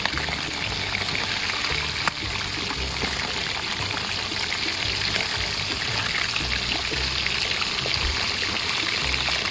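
Chicken pieces frying in oil in a pot on a low flame, a steady sizzle, with soft background music underneath.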